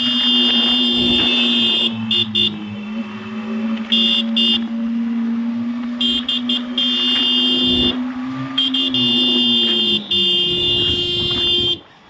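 Yamaha MT-15 V2 motorcycle's single-cylinder engine running at a steady speed, its note dropping away about ten seconds in as the bike slows. High-pitched tones cut in and out over it several times.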